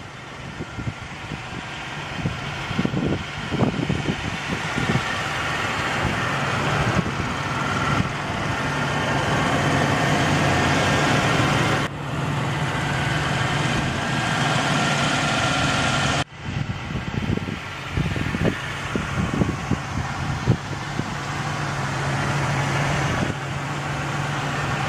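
GM 3800 Series II V6 of a 1998 Pontiac Grand Prix GT idling steadily with an even hum, growing louder over the first ten seconds or so.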